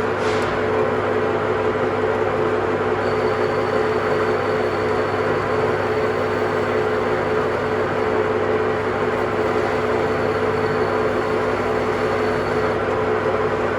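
A machine running with a steady hum and an even rushing noise, unchanging throughout. A faint high whine joins about three seconds in and drops out near the end.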